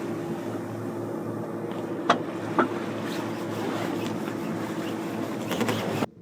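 Sailboat's inboard engine running steadily, charging the batteries, with two sharp knocks about two seconds in. The sound cuts off abruptly just before the end.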